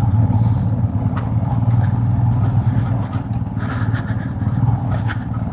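Royal Enfield Himalayan's 411 cc single-cylinder engine running at a steady cruise, its rapid firing pulses over road noise.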